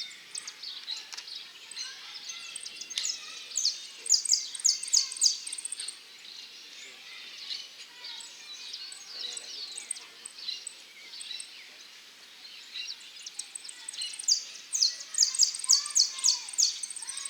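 Saffron finch singing in a song contest. It gives two loud runs of rapid, repeated, high down-slurred notes, a few seconds in and again near the end, over the steady chirping of other caged finches.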